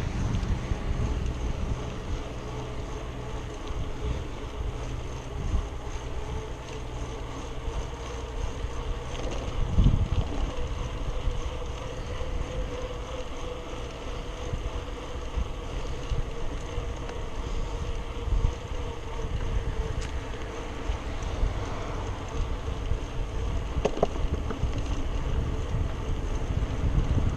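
Wind buffeting the camera microphone during a bike ride, with a steady faint hum underneath and a single low thump about ten seconds in.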